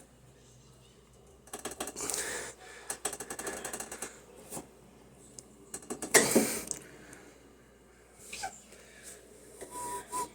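Irregular rapid clicking and rattling of hard parts being handled, with a louder clattering scrape about six seconds in.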